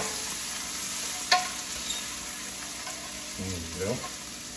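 Shallots and smashed garlic sizzling in butter and olive oil in a skillet as they are stirred, with a single sharp tap of the utensil against the pan about a second in. A brief voice sound near the end.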